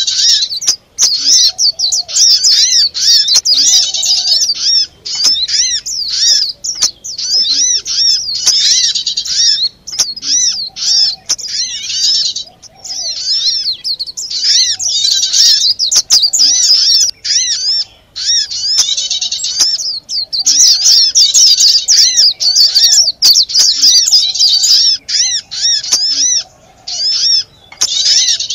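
Loud, dense chattering of many small songbirds, rapid repeated chirps broken by short pauses every few seconds: a bird-luring (pikat) recording of agitated small birds, played to draw other small birds in.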